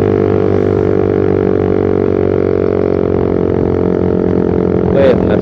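Suzuki Satria FU fuel-injected motorcycle with a short Pro Liner aftermarket muffler, fitted without its dB killer, running at a steady cruise on the road with a loud, even exhaust drone.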